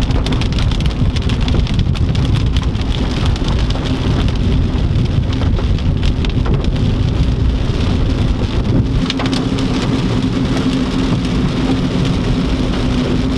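Heavy rain beating down on a moving car: a dense, steady patter of drop impacts over a low, even drone from the car.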